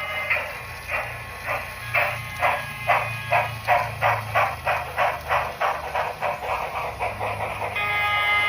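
Steam sound effects from a Union Pacific Big Boy model locomotive: evenly spaced exhaust chuffs at about two to three a second, quickening slightly, over a low hum. A multi-tone steam whistle ends just after the start and sounds again near the end.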